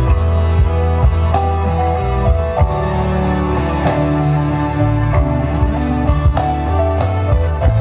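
Band music with guitar, drum hits and heavy sustained bass, played loud through a demo sound system of speakers and subwoofer.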